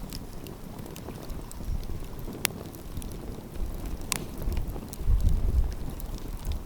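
Wood fire crackling, with a few sharp pops, the clearest about two and a half and four seconds in. Low rumbles of wind buffet the microphone, strongest about five seconds in.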